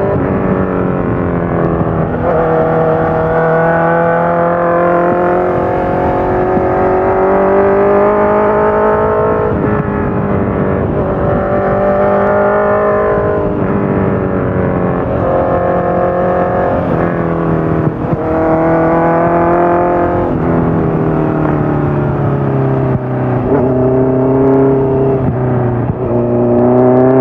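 Honda CBR650F's inline-four engine breathing through a full Akrapovic exhaust with the dB killer fitted, pulling hard under way: its pitch climbs and then drops sharply at each gear change, many times over, with some easing off between pulls.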